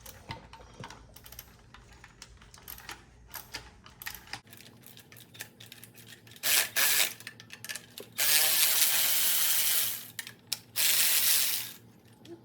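Ratchet wrench clicking in short strokes as the fuel pump is unbolted from a Ford 289 V8. Then three loud rasping bursts come about six, eight and eleven seconds in, the middle one nearly two seconds long.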